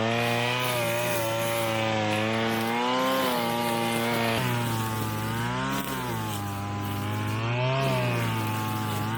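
String trimmer (weed whacker) engine running steadily, its pitch rising and falling several times as the throttle is worked.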